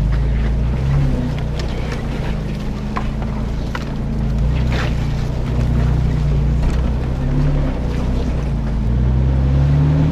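4x4 truck engine running at low revs while driving slowly off road, with scattered knocks and rattles as the truck goes over the rough trail. The engine note rises near the end as it picks up speed.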